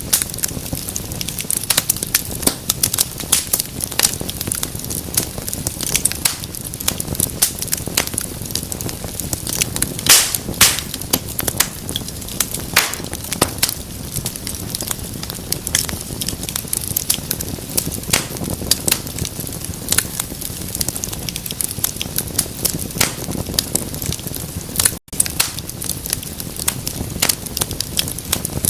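Fire crackling in a fireplace: dense, irregular snaps and pops over a low rushing of flame, with a few louder pops about ten seconds in. The sound cuts out for an instant near the end.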